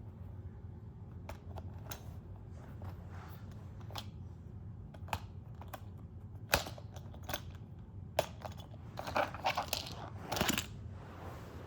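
Small hard plastic toy pieces being handled: scattered light clicks, one sharper click partway through, and a run of crackling and crinkling near the end.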